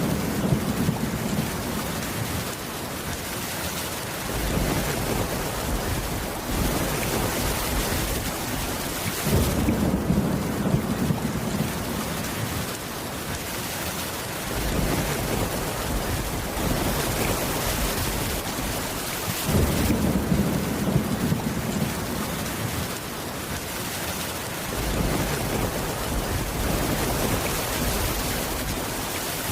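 Steady rain with a low rumble of thunder swelling up about every five seconds.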